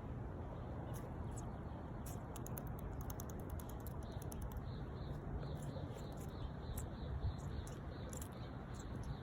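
Faint, irregular rapid clicking or ticking over a steady low rumble.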